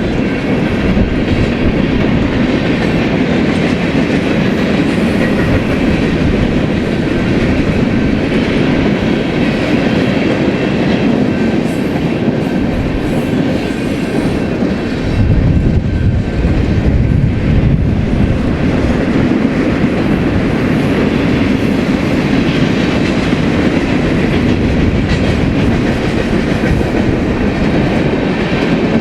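BNSF freight train cars rolling past with a steady rumble and clatter of wheels on the rails, growing heavier and deeper for a few seconds about halfway through.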